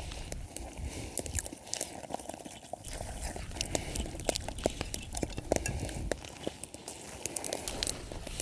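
A person chewing and crunching food close by, with many small sharp crunches and crackles throughout.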